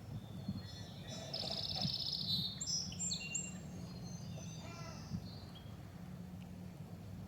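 Small birds chirping, with a rapid high trill a little over a second in and short high notes after it, over a low steady hum.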